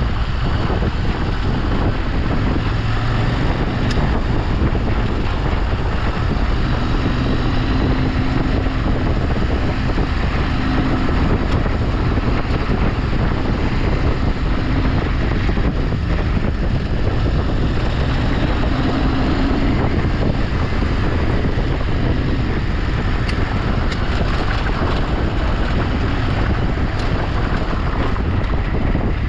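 Steady wind noise on the microphone over a vehicle engine running under way, its pitch wavering a little now and then.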